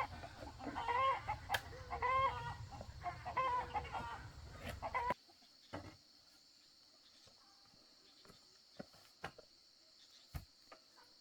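Chickens clucking in a run of repeated calls that stop abruptly about five seconds in. After that comes a steady high insect drone with a few faint clicks.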